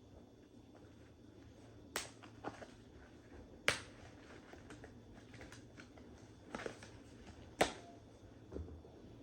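A handful of sharp clicks and light knocks at irregular intervals, two of them louder than the rest, as small hard objects are handled.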